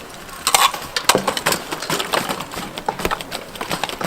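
Irregular knocks and clicks of bike polo play: mallets striking the ball and bicycles clattering on the hard court.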